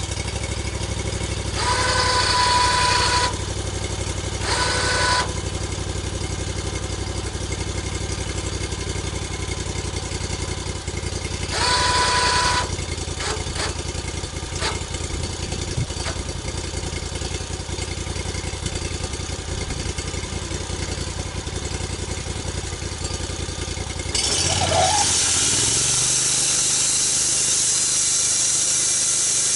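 An engine running steadily at idle, with three short high-pitched squeals over it. About 24 seconds in, the engine note drops away and a loud steady hiss takes over.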